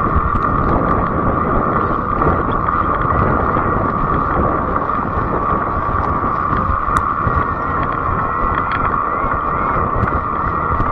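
Fat-tire electric bike in motion: a steady whine over the rumble of wind on the microphone and tyre noise, with a few light ticks.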